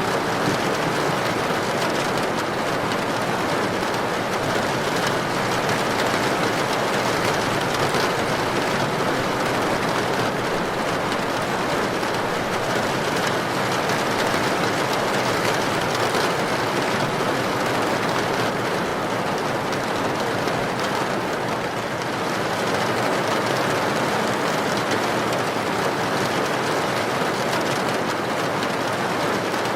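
Heavy rain with wind, a steady dense rushing that barely varies.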